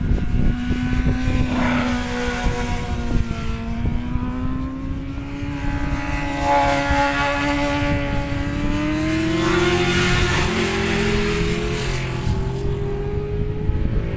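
An engine droning, its pitch climbing slowly and evenly with no gear-change steps, under heavy wind rumble on the microphone.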